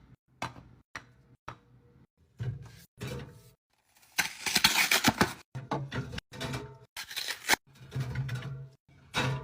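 Fridge restocking handling sounds: a series of short knocks and clicks of containers and items being set down, with a longer tearing, crinkling noise of packaging about four seconds in.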